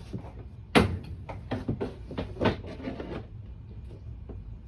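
Knocks and clicks of a window air conditioner being handled and set up before it is switched on: one sharp loud click about a second in, then a string of lighter knocks and rattles, over a steady low hum.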